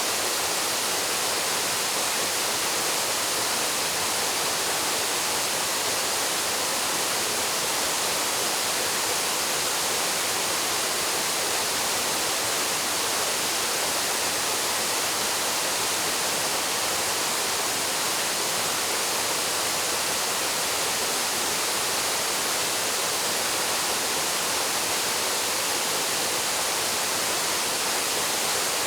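Paraeso Falls, a waterfall plunging into a pool, with a steady, even rush of falling water that strengthens toward the high end.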